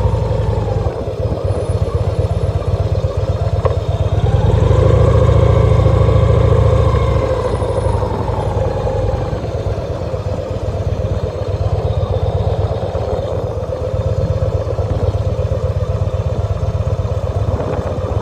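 2014 Victory Cross Country's V-twin engine running while the motorcycle is ridden on the road, with a heavy low rumble. The engine note swells and rises a few seconds in, then eases off and falls back.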